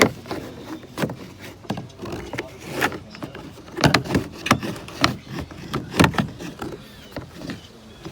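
Irregular knocks, clicks and rattles of hands working on a truck door, with sharper knocks about four and six seconds in.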